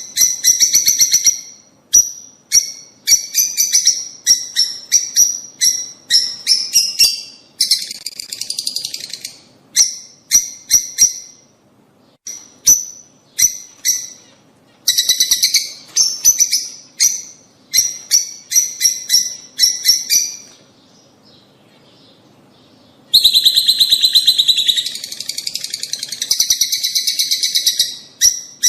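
Lovebirds calling: runs of sharp, high-pitched chirps repeated in quick succession, broken by spells of denser chattering. There is a short lull about three-quarters of the way in, followed by a long chattering burst.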